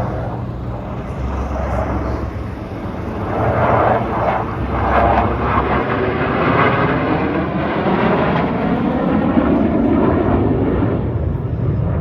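Airplane flying past. Its engine noise swells about three seconds in and stays loud, with a sweeping change in tone as it goes by.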